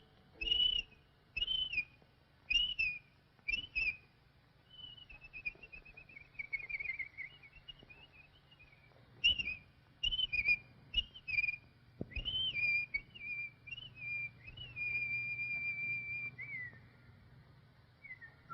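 Whistled cartoon bird calls: short swooping whistles at about one a second, then a descending warbling run, more short calls, and a long held whistle that glides down near the end.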